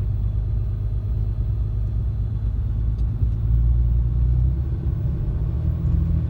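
2015 Ram 2500's 6.7-litre Cummins turbo-diesel inline-six running with a steady low drone. The pitch shifts slightly about four and a half seconds in.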